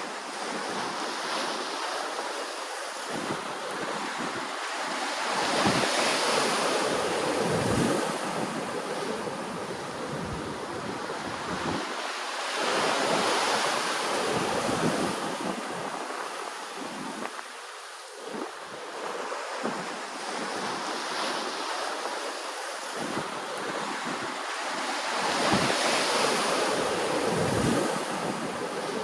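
Ocean waves breaking and washing in, the surf swelling and fading in slow surges several seconds apart.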